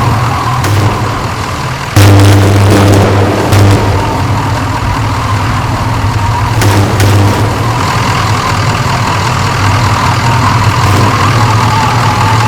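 Vehicle engine and road noise, a steady low hum with scattered clicks, jumping suddenly louder about two seconds in.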